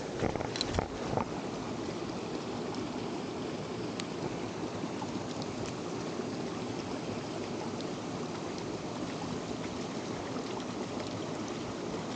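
Mountain stream water rushing steadily, with a few light knocks in the first second.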